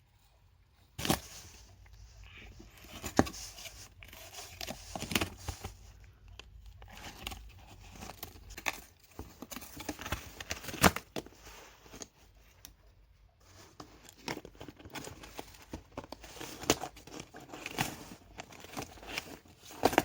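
A cat tussling with a toy: irregular crinkling, rustling and tearing sounds broken by sharp scratches and knocks.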